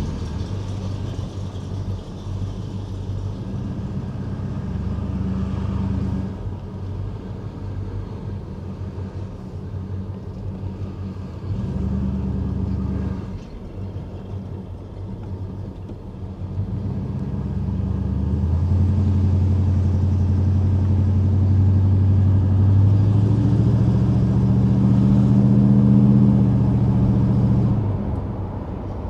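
1987 Chevrolet Monte Carlo SS Aerocoupe's V8 engine pulling the car along the road. The engine note changes in steps, builds louder through the second half as it accelerates, then eases off near the end.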